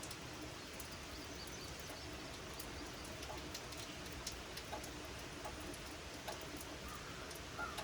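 Light summer rain falling steadily, with scattered sharp drop ticks. A bird chirps faintly a few times near the end.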